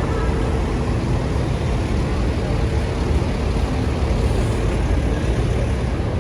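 Steady vehicle noise: a low rumble with an even hiss above it, as of road traffic.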